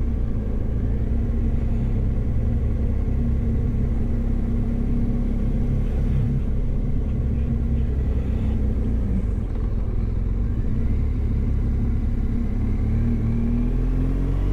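BMW GS motorcycle engine running at road speed under heavy low wind rumble, with a steady engine note that rises over the last few seconds as the bike speeds up.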